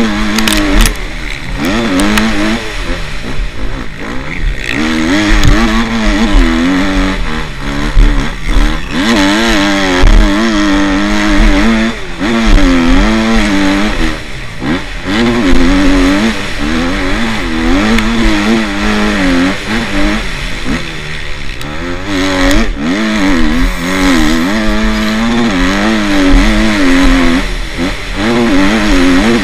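Motocross bikes racing, their engines revving up and down again and again as the riders work the throttle.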